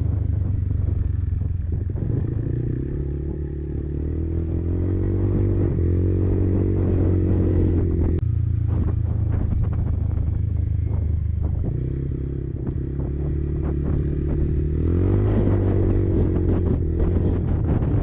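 Kymco Maxxer 300 quad's engine pulling under throttle, its pitch climbing, dropping sharply about eight seconds in, then climbing again near the end, with knocks and rattles from the machine over rough ground.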